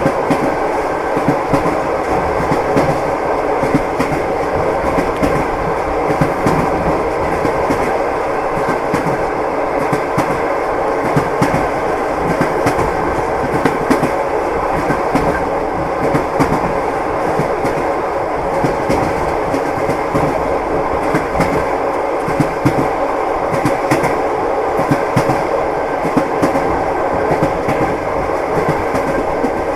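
Train wheels clattering over rail joints, a steady rumble heard from inside a moving railway carriage, with frequent short clicks throughout.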